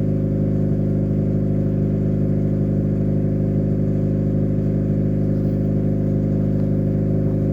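1998 Honda Civic's 1.6-litre four-cylinder engine idling steadily through a newly fitted aftermarket axle-back muffler.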